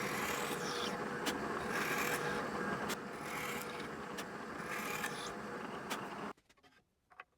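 Steady scratchy rubbing on the wood of a wine barrel stave as it is worked for finishing. The sound stops suddenly about six seconds in.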